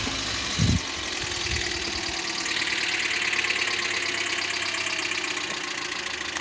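2009 Toyota Corolla engine idling with a rapid, loud ticking: valve tapping that makes it sound like a diesel at idle.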